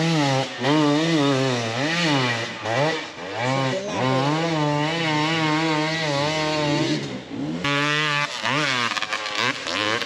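Off-road dirt bike engine revving hard under load on a steep climb, the revs rising and falling quickly again and again, then held high and steady for a few seconds. The note cuts off suddenly about three-quarters of the way through, then revs up and down again.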